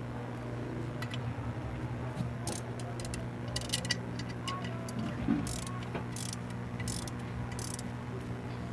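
Scattered light metallic clicks and taps of hand tools at work on a clutch assembly, a few seconds apart, over a steady low hum.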